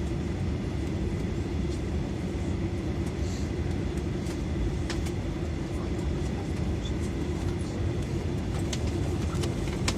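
Cabin noise inside an Airbus A320 taxiing after landing: a steady low rumble with a constant engine hum, and a few light clicks and rattles scattered through it.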